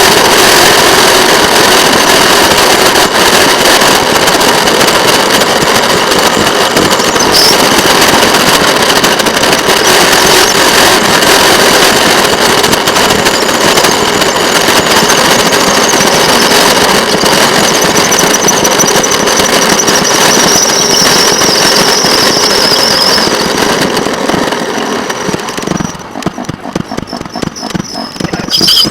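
Railroad motorcar (speeder) running on the track, sped up by the time-lapse: engine noise and wheel-on-rail clatter blurred into a dense rapid crackle, with a high squeal through the middle. It drops off for a couple of seconds near the end, then comes back loud.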